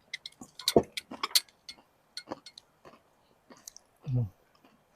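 Crunchy fried taco shells being bitten and chewed close to the microphone: a run of sharp crackles and clicks, loudest about a second in. A short hummed "mm" comes near the end.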